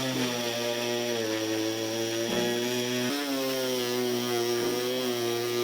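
Oscillating multi-tool running steadily, cutting a speaker opening into a car rear door trim panel, its pitch shifting a couple of times as it cuts.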